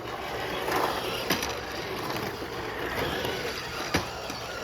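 RC cars driving and rolling, a steady noisy rush of motors and wheels, with a few sharp knocks as they bump, one just over a second in and another near the end.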